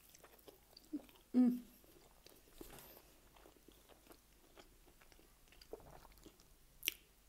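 A person chewing a big mouthful of chicken burrito, close to the microphone: soft wet clicks and smacks of the mouth. There is a brief hum from the throat about a second and a half in and a sharp smack near the end.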